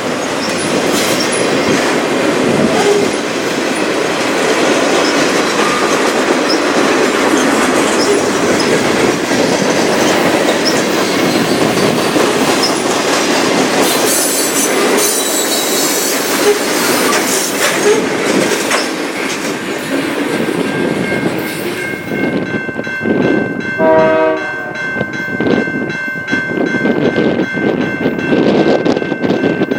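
A train passing close, its wheels clattering and rumbling on the rails. About two-thirds of the way through, steady horn tones come in and hold to the end.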